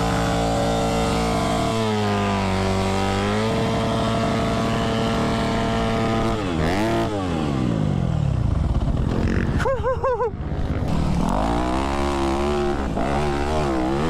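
Dirt bike engine running at high revs. It holds steady, dips in pitch for a moment about two seconds in, then drops off and revs back up several times.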